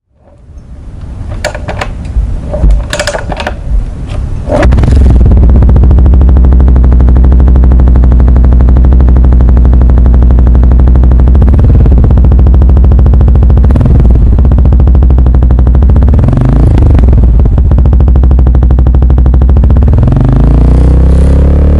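Yamaha SR400 single-cylinder engine running through an aftermarket Tech Surf stainless muffler. After a few clattering knocks in the first seconds, it settles into a loud, steady run from about four and a half seconds in, with the revs rising and falling a few times later on.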